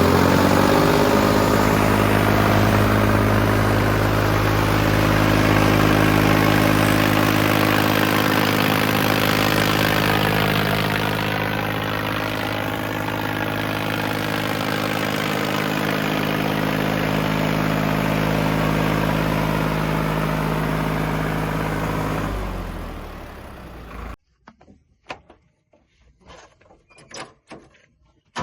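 Diesel tractor engine revving up, then running steadily at high revs for about twenty seconds before fading away. The last few seconds are almost silent, with a few faint clicks.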